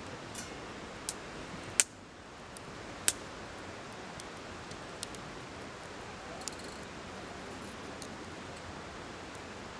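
Wood campfire burning with a steady hiss and scattered sharp crackling pops, the two loudest just under two seconds in and about three seconds in.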